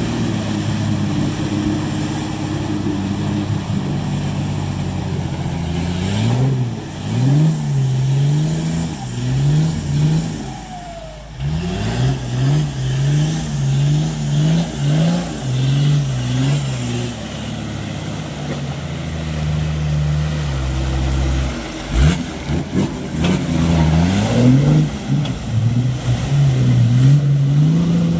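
An off-road 4x4's engine is revved in quick, repeated bursts of throttle, about one a second, with steadier running between the bursts. A single sharp knock comes about two-thirds of the way through.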